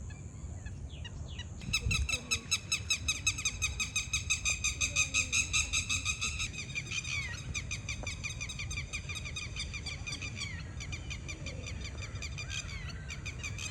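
Birds calling: from about two seconds in, a fast run of repeated chirps, about five a second, then a looser mix of short calls with falling notes, over a low steady rumble.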